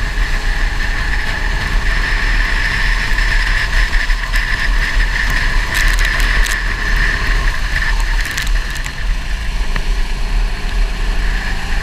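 Go-kart engine running steadily over a heavy low rumble, with a few short clicks about halfway through.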